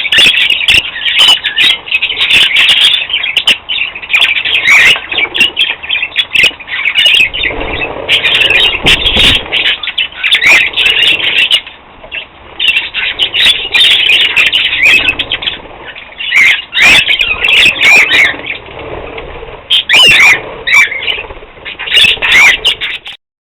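Budgerigars chattering and chirping continuously while flapping their wings and splashing in a bird bath, in busy bouts with short lulls. The sound cuts off abruptly near the end.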